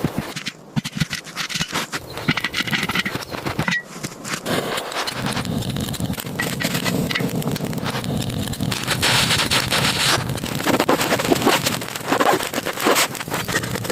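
Bushcraft fire-lighting work: repeated scraping with many sharp crackles and snaps from wood and kindling.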